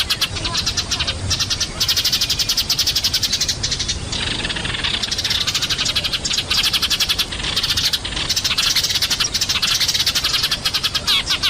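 A noisy flock of Eurasian tree sparrows chirping, with many rapid overlapping chirps and no pauses.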